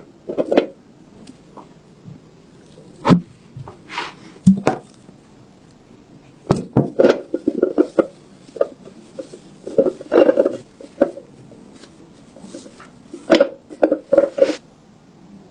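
Irregular sharp clicks and knocks with short bursts of scraping, the sound of a rusty submachine gun's metal parts being handled and worked on by hand.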